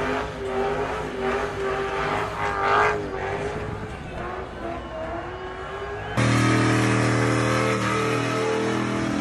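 Car engine held at high revs during a tyre-smoking burnout, its note wavering. About six seconds in, the sound cuts abruptly to a louder, deeper, steadier engine note from a pickup truck's burnout.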